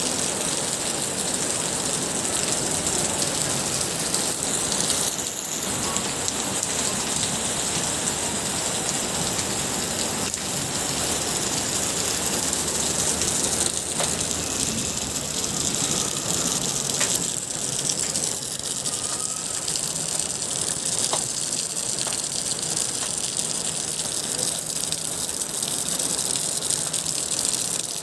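Rain falling steadily in an even rushing hiss, with a few faint ticks of drops.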